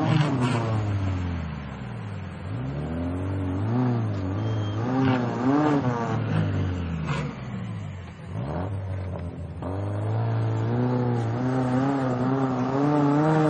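Off-road 4x4 engines revving up and down in repeated bursts as the competition vehicles work their way up a steep gully bank, easing off briefly past the middle and then holding high revs near the end.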